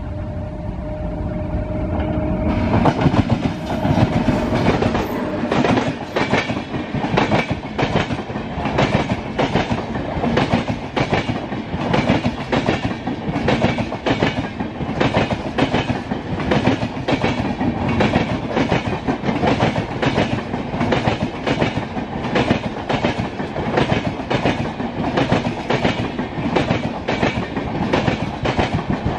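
LHB passenger coaches of an express train passing at speed, their wheels clattering over the rail joints in an even, repeating clickety-clack. About two and a half seconds in, a steadier rumble gives way to the clatter, which then keeps up evenly.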